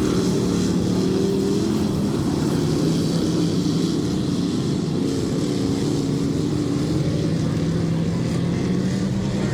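Dirt-track race cars running in a heat race, several engines at once drifting slightly up and down in pitch as the field circles the oval.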